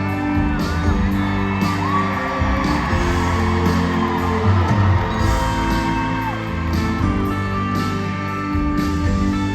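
Live band music heard from within the audience, with steady bass and drums and long held notes, and fans whooping and yelling over it.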